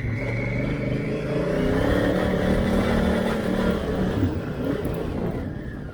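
Honda Africa Twin motorcycle engine pulling hard in first gear up a steep hill, the revs rising over the first couple of seconds, then easing off and fading near the end.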